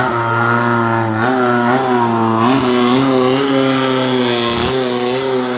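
Boat engine running steadily, its pitch wavering slightly up and down.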